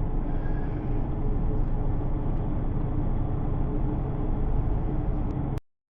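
Steady road and engine noise of a car driving, picked up by a dashcam, that cuts off abruptly near the end.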